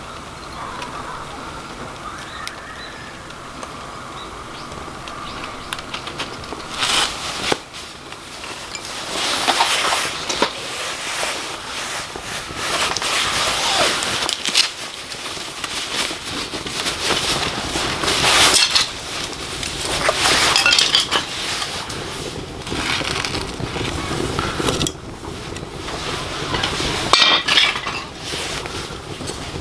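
Pieces of charcoal being handled, clinking and crunching against one another in irregular bursts that begin about seven seconds in.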